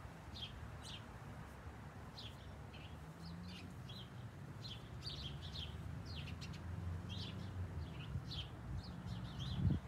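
Small birds chirping, many short high calls through the whole stretch, over a faint low rumble of outdoor background.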